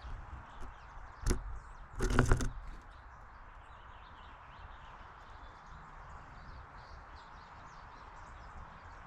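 Backyard ambience with faint bird chirps, broken by a sharp knock about a second in and a louder clattering knock a moment later.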